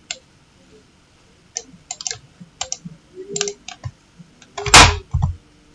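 Computer keyboard being typed on: irregular, quick key clicks, with one much heavier thump about three-quarters of the way through and a smaller one just after.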